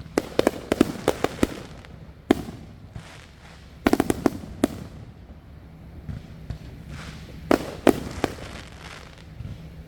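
Backyard fireworks going off in clusters of sharp bangs: a rapid string of reports in the first second and a half, a single bang, another quick cluster about four seconds in, and a few more bangs near the end.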